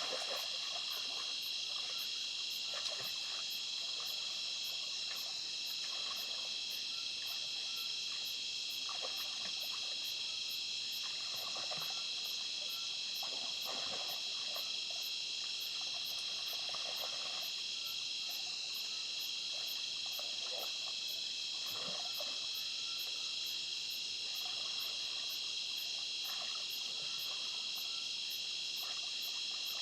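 A steady chorus of insects, a dense high-pitched trill that does not let up. Short, soft rustles and patters come and go beneath it.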